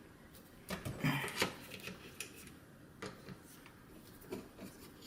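Small metal clicks and scrapes of a screwdriver loosening a screw on a DF64P coffee grinder, in a few short bursts: about a second in, again at about three seconds and near four.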